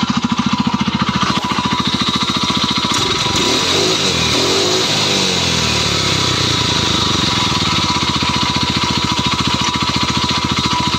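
Small four-stroke engine running, briefly revved up and back down about three to six seconds in. A faint scraping is still there, but the heavy anvil-like knock is gone, which the owner puts down to the RVS additive treatment.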